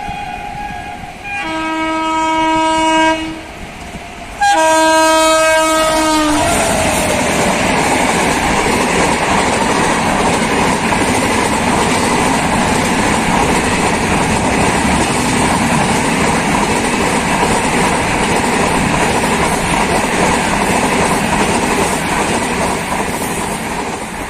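An Indian Railways WAP-7 electric locomotive's horn: a high note ends about a second in, then two separate lower blasts, the second falling in pitch at its end. The Howrah Duronto Express then passes at speed, a loud, steady rush of coaches on rails that fades near the end.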